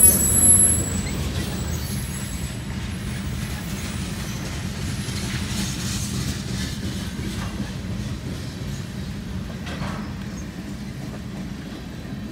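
Freight train tank cars rolling past, a steady low rumble of wheels on rail that slowly eases off, with a brief high wheel squeal right at the start.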